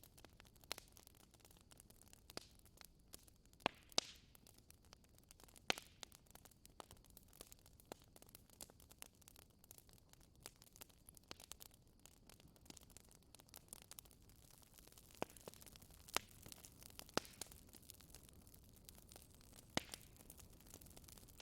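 Wood fire crackling in a fireplace: irregular small snaps and pops over a faint hiss, with a handful of louder pops.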